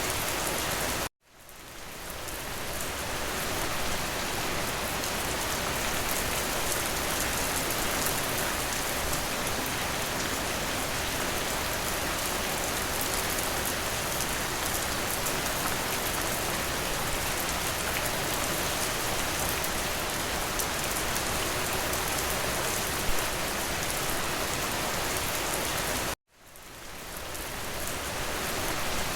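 Steady rain hitting a window, an even hiss of drops. It cuts out abruptly twice, about a second in and near the end, and each time fades back in over a couple of seconds.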